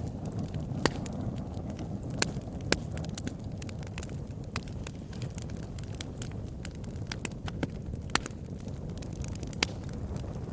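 Fire burning in a fireplace: a steady low rush of flame with sharp crackles and pops at irregular intervals, a few of them louder snaps.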